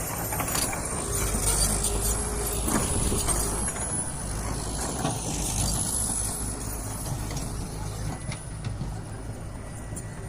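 Diesel engine of heavy earthmoving machinery running steadily under load, louder for a few seconds in the first half, with a thin high whine over the low rumble.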